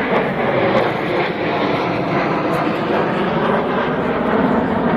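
Fixed-wing aircraft flying over, a loud, steady rush of engine noise.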